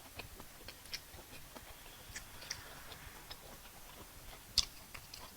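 Close-up eating sounds from a person eating fufu and soup: scattered soft wet clicks and smacks, with one sharper click about four and a half seconds in.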